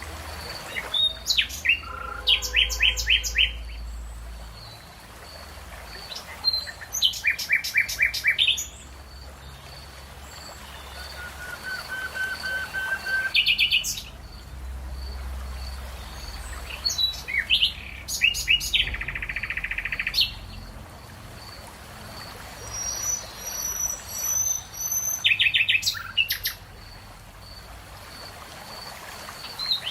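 Several songbirds singing in turn, each phrase a quick run of repeated chirps, with short pauses between phrases. A faint high note repeats evenly underneath.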